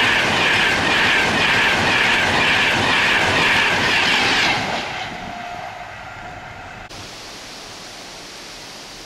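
A Class 91-hauled InterCity 225 electric express passing close at speed, with a loud rush and rhythmic wheel clatter over the rails. About four and a half seconds in the sound drops away sharply as the tail of the train clears, leaving a faint fading tone and low background noise.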